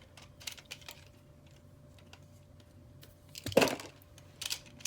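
Light plastic clicks and rattles from handling Beyblade tops and a launcher, with one louder clatter about three and a half seconds in.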